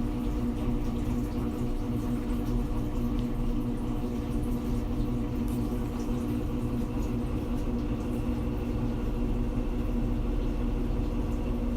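Washing machine running with a steady hum and a low rumble underneath: the weird noise it makes while still working.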